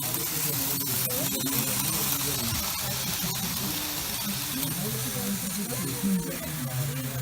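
Indistinct chatter of many people talking at once, over a steady hiss.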